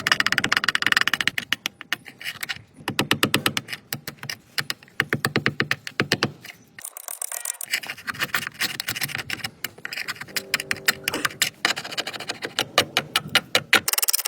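Rapid, even clicks or taps, many a second, with a short break about seven seconds in.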